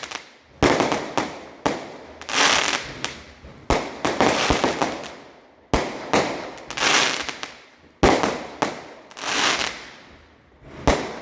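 Fireworks going off: a run of about nine sharp bangs, roughly one every second or so, each trailing away over a second or more before the next.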